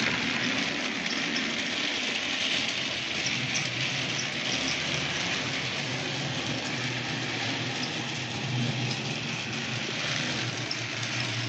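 Battery-powered TrackMaster Percy toy engine running steadily along plastic track, its small electric motor and gears whirring as it pulls a train of trucks.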